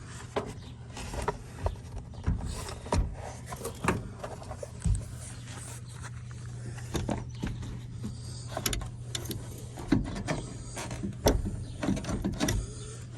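Irregular clicks, clinks and knocks of seatbelt hardware being handled and fitted in a truck, over a steady low hum.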